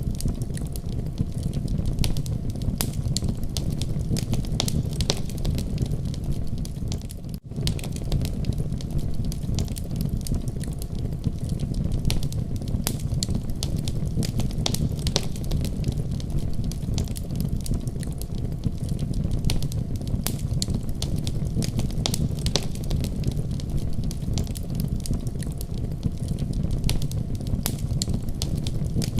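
Wood fire crackling in a fireplace: many small sharp pops and snaps over a steady low rumble of the flames, with a brief drop-out about seven seconds in.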